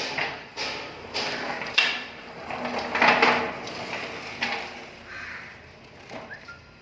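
Hand pallet truck being handled: a series of sharp metallic clicks and clunks, with a longer rattling clatter about three seconds in.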